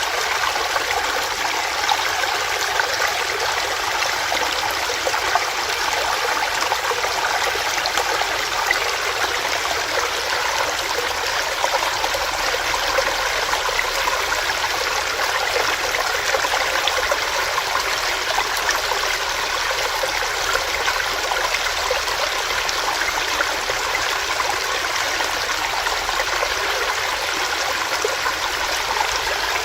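Small rocky stream running over stones, a steady rushing and trickling of water.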